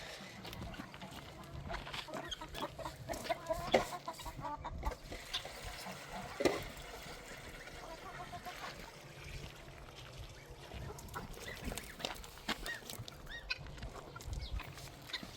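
Chickens clucking, with scattered short taps and knocks.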